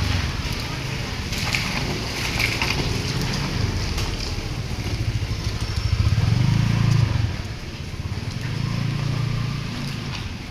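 A vehicle engine running on the move on a wet road, with steady wind and road noise. The engine note swells about six seconds in, then drops off about a second later.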